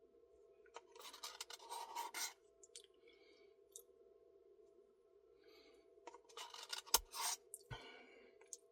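A spoon scraping and digging into a Blizzard ice cream cup in two short scratchy spells, the first about a second in and the second near the end, over a faint steady hum.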